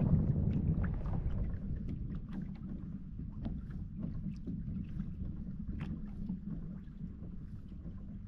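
Wind rumbling on the microphone of a fishing kayak on open water, with scattered light splashes and small clicks against the hull; the rumble slowly fades.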